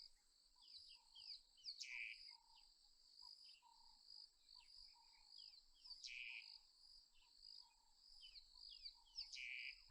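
Faint savanna ambience: a steady, high insect trill with many short, quick bird chirps over it, and three louder calls spaced about three and a half seconds apart.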